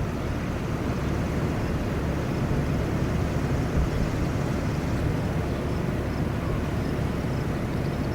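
Steady low wind rumble on the microphone, with a few brief low thumps from gusts.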